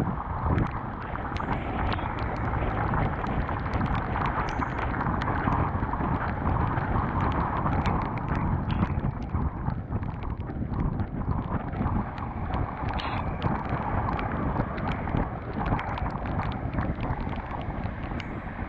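Wind rushing over the GoPro's microphone as a Honda CBR250R motorcycle rides through rain, a steady dense rush with the bike's running and the tyres on the wet road mixed in, and many small sharp ticks scattered throughout.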